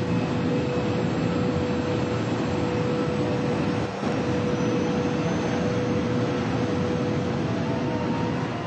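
TGV V150 high-speed test train running flat out at about 566 km/h: a loud, steady rush of air and rolling noise with a constant hum.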